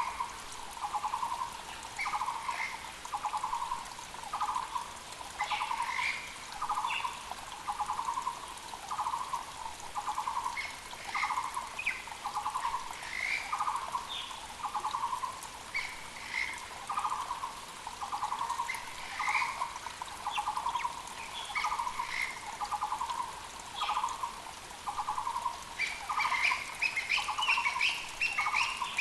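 Muller's barbet (Taiwan barbet) calling, one low note repeated about once a second without a break. Other small birds add short high chirps, more of them near the end, over the faint steady rush of a mountain creek.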